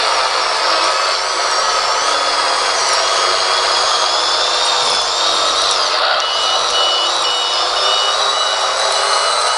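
Benedini micro sound module in an RC Cat D5 dozer playing a simulated diesel engine through a tiny speaker, so the sound has little bass. The engine note shifts in pitch about six seconds in. A backup alarm then starts beeping about twice a second, the sign that the dozer is reversing.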